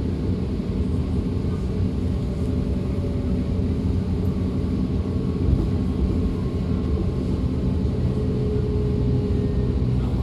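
DB Class 425 electric multiple unit running along the line, heard from inside the train: a steady rumble of wheels and running gear with faint steady motor whine tones over it.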